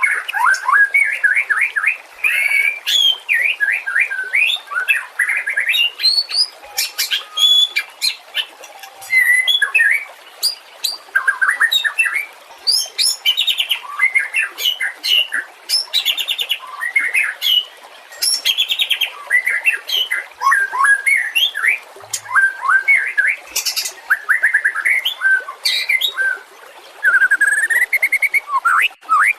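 White-rumped shama (murai batu) singing a long, varied song of rapid whistled phrases, trills and chattering notes, one after another with only brief pauses.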